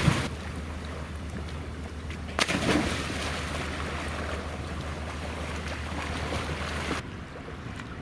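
Wind and water rushing past a sailing yacht under way, with wind buffeting the microphone as a steady low rumble. A louder rush comes about two and a half seconds in, and the sound drops suddenly to a quieter level near the end.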